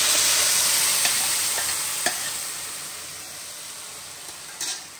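Ground onion-tomato masala paste sizzling in hot butter in a pan as it is stirred, with a few light knocks of the spoon against the pan. The sizzle is loudest at first and fades steadily.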